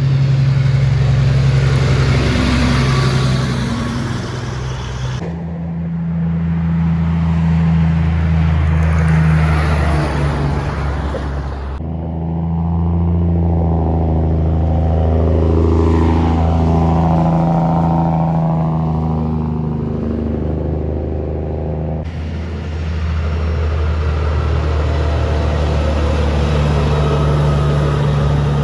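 Kenworth trucks' heavy diesel engines driving past, with a deep, steady engine note. The sound changes abruptly three times as one pass gives way to another, and in the middle pass the engine pitch slides as the truck goes by.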